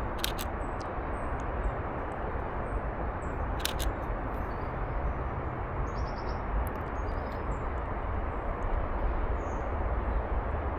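Steady low rushing outdoor background noise with faint, brief bird chirps scattered through. A few sharp clicks come right at the start, about four seconds in, and at the very end, fitting a camera shutter firing.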